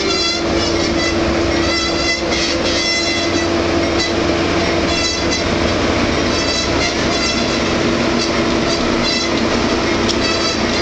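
Lit boxcars of the Canadian Pacific Holiday Train rolling past, with a continuous rumble, a steady hum and short high-pitched wheel squeals recurring every second or so.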